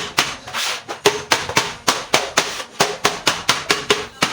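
Hammering: quick, even hammer blows, about three to four a second, each with a short ring.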